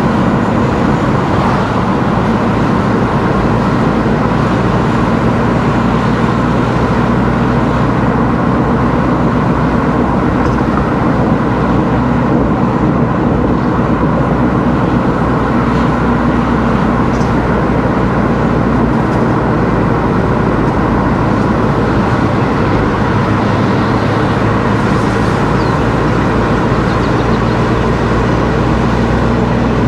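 Car driving steadily: a constant engine drone with tyre and road noise, level throughout.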